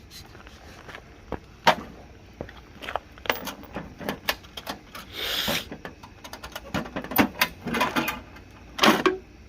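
Metal clinks and knocks of hand tools and brake parts being handled during front brake pad and rotor work, with a short scraping rasp about five seconds in.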